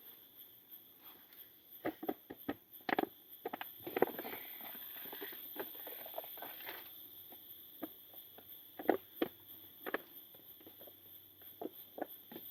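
Light, irregular clicks, taps and rustles of cookware and food packets being handled during camp meal preparation, over a steady high-pitched whine.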